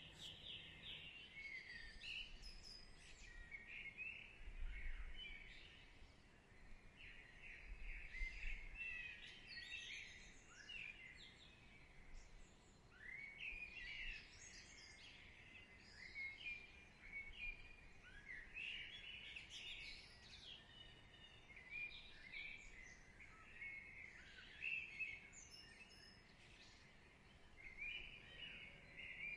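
Faint recorded birdsong: many small birds chirping and twittering in overlapping short phrases throughout, over a soft even hiss.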